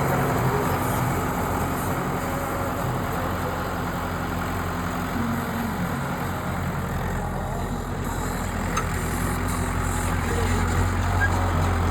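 Tractor engine running steadily with a low hum, growing a little louder after about eight seconds.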